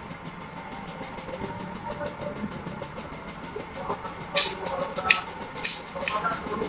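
A steady mechanical hum. About four seconds in, a series of sharp clicks or knocks begins, roughly one every half second.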